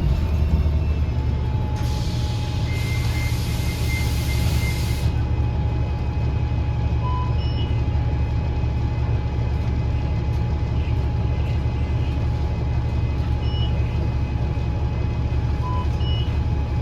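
Interior of a 2009 Gillig BRT 40' transit bus: the diesel engine and Voith transmission give a steady low drone with a faint, steady whine above it. About two seconds in, a burst of air hiss lasts about three seconds, alongside a quick run of beeps, and a few single beeps follow later.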